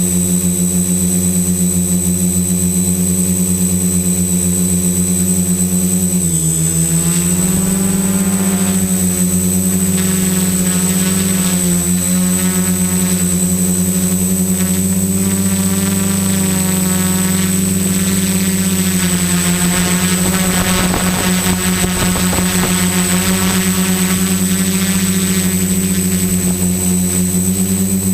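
XAircraft X650 Pro V4 quadcopter's electric motors and propellers buzzing in flight, a steady drone that dips in pitch and rises again about six seconds in, then wavers as the motors adjust. A thin high whine sits over it throughout.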